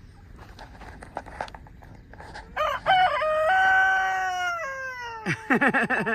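Rooster crowing: a long cock-a-doodle-doo that rises, holds and then falls away. It ends in a short run of quick wavering notes.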